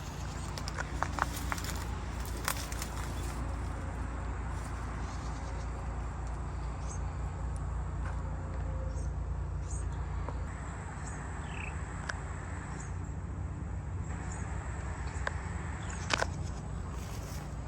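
Outdoor ambience: a steady low rumble, a few sharp clicks about a second in, near two and a half seconds and near the end, and faint short high chirps now and then.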